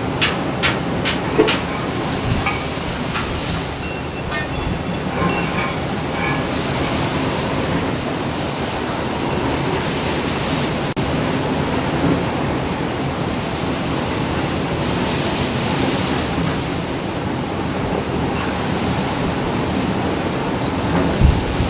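Steady, heavy rumble of a ship working through big waves, engine and sea noise together. There are a few sharp clicks near the start and a heavy thump near the end.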